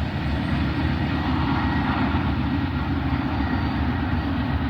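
Freight train rolling past close by, a steady rumble of wheels on rail.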